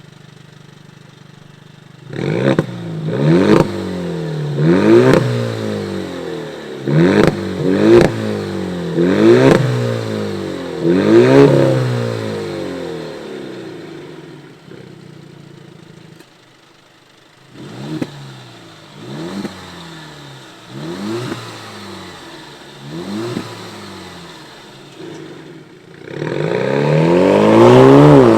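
Alfa Romeo Stelvio's 280 hp turbocharged 2.0 four-cylinder petrol engine revving through an aftermarket Baq Exhaust active cat-back system. It gives a quick series of sharp throttle blips with rising and falling pitch, goes quiet about halfway, gives some lighter blips, then a longer, louder rev near the end.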